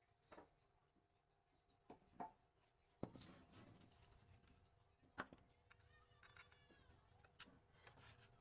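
Near silence: faint room tone with a few soft, scattered taps and clicks.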